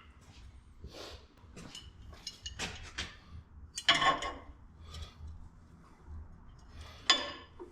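Scattered metallic clinks and clanks of tools and metal parts being handled, with the loudest clank about four seconds in and another near the end.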